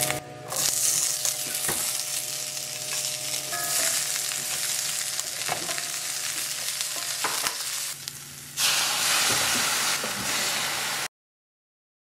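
Fish cake and vegetables sizzling as they are stir-fried in oil in a stainless steel frying pan, with the wooden spatula scraping and clicking against the pan now and then. The sizzle grows louder about two-thirds of the way through, then cuts off abruptly near the end.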